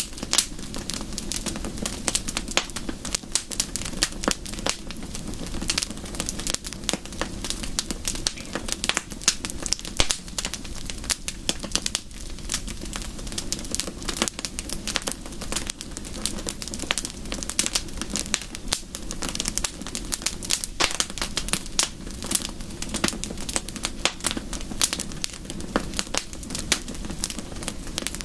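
Wood fire crackling, with dense, irregular pops and snaps over a steady low rumble.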